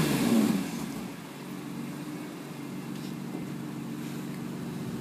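BMW E46 M3's S54 straight-six, breathing through aftermarket AP headers and Borla mufflers, dropping back from a rev in the first second and then idling steadily.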